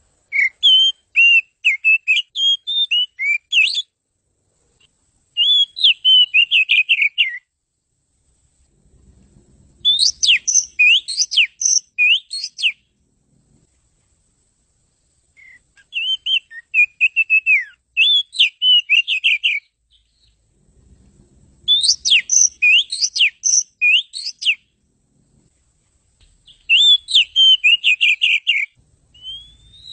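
Oriental magpie-robin (kacer) singing: rapid, varied whistled and chirping phrases in six bursts of two to four seconds each, with short pauses between them.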